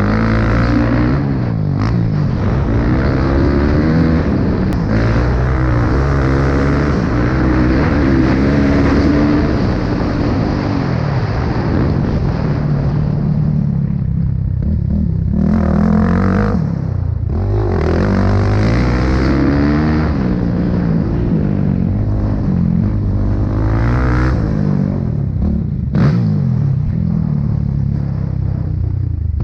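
Small motorcycle engines, pit bikes, running hard while being ridden, the engine note rising and falling continuously with throttle and gear changes, with brief backing off a couple of times.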